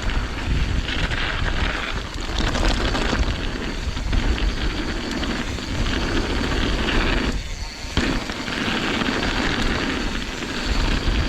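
Wind buffeting the microphone in a heavy low rumble, over the hiss of mountain bike tyres rolling on a dirt trail at speed. There is a short break in the noise about seven and a half seconds in.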